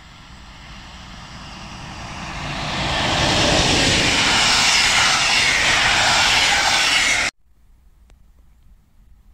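Passenger train approaching and passing at speed: the rumble and hiss of wheels on the rails swell over the first three seconds and stay loud as the coaches go by, then cut off suddenly about seven seconds in, leaving faint outdoor background.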